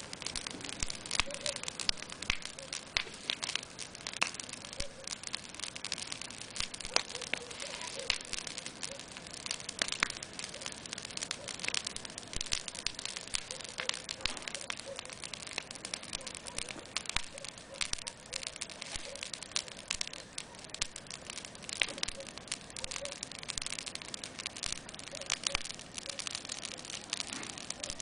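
Wood fire crackling, with many irregular sharp pops and snaps over a steady low hiss.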